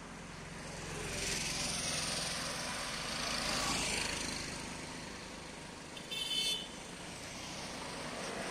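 Highway traffic: a vehicle passing with a swell of engine and tyre noise, then a short horn toot about six seconds in.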